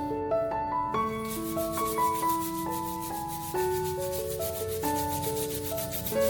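Steady scrubbing and rubbing, starting about a second in, over soft piano background music.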